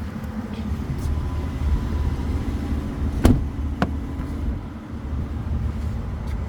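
Two sharp clicks about half a second apart, from the cab controls of a 2023 Ford F-150 Tremor being pressed, over a steady low rumble.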